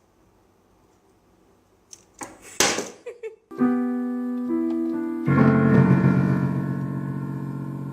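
Near silence, then a short noisy sound about two seconds in. Piano notes follow, held and ringing, with a louder cluster of many notes struck together about five seconds in that slowly dies away.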